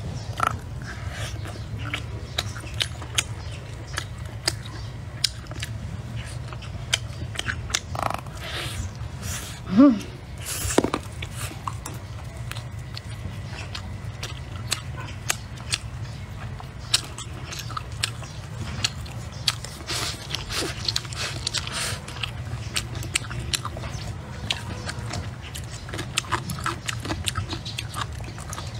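Close-up eating sounds: a person biting and chewing pork off the bone and mouthfuls of rice with pickled chilli peppers, with many small crunching clicks and wet mouth sounds over a low steady hum. About ten seconds in comes one short whine, the loudest sound in the stretch.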